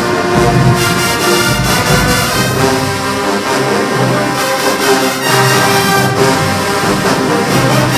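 Marching band playing loudly, its brass section (trombones and trumpets) holding full sustained chords over drum hits.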